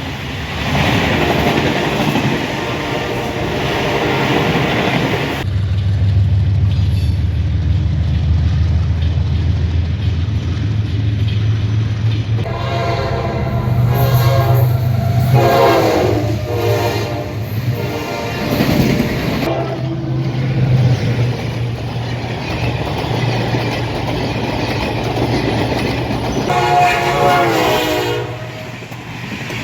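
Train running with a steady low locomotive hum and wheels clicking over rail joints. The locomotive's horn sounds in a run of several blasts about halfway through, and once more near the end.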